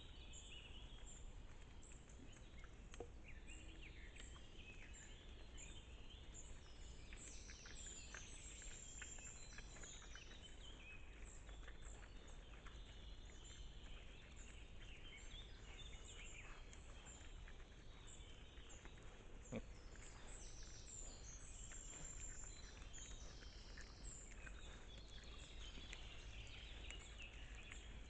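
Faint forest ambience through a trail camera's microphone: many birds chirping and whistling over a steady low hum, with a couple of faint knocks.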